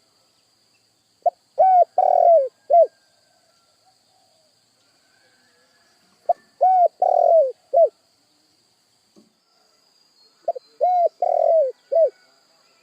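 Spotted dove cooing: three phrases about four seconds apart, each a short first note, a coo, a long drawn-out coo and a short closing coo.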